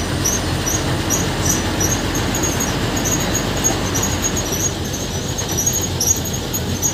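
Steady running noise of a moving bus heard from inside by an open window: engine and road rumble with rushing air. A high, thin chirp or squeak repeats a few times a second over it.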